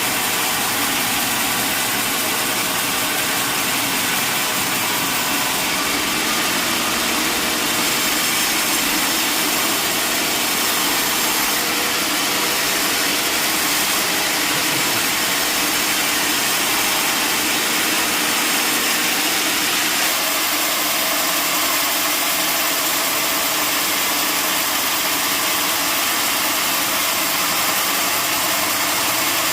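Sawmill machinery running steadily: a constant, even noise with no pauses.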